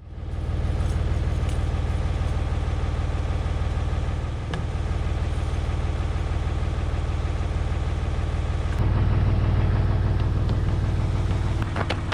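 An engine running steadily at a constant speed. About nine seconds in its sound shifts and gets slightly louder, and a rapid clicking rattle joins it near the end.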